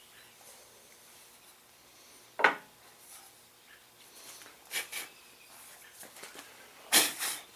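Handling knocks and clicks: a sharp knock about two seconds in, a few light clicks, then a louder clatter near the end.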